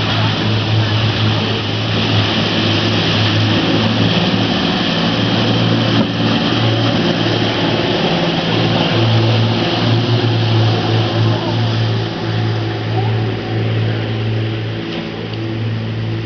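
A boat's engine running steadily with a deep, even hum, under a rush of wind and water.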